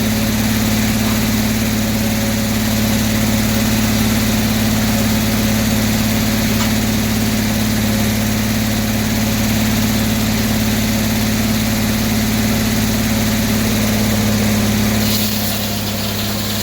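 Circular sawmill running at a steady speed, its engine humming with the 48-inch bitted blade turning. About 15 seconds in, the sound drops a little with a brief hiss.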